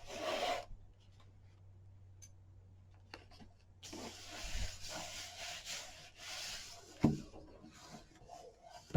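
Paper being rubbed and slid across a work surface by hand: a short scratchy rustle at the start, a quiet pause, then several seconds of rubbing, with a light knock about seven seconds in.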